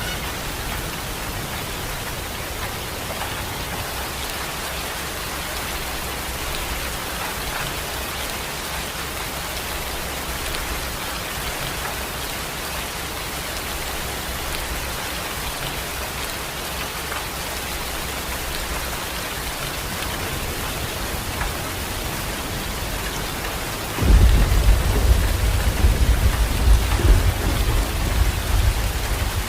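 Steady rain falling, an even hiss throughout. About five seconds before the end a loud low rumble sets in suddenly and lasts to the end.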